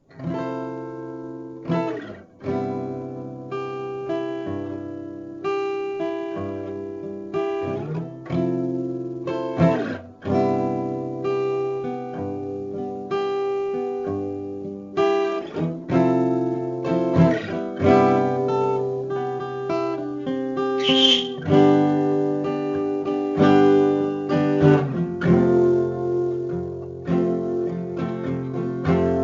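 Acoustic guitar strumming chords, struck about once a second, without singing.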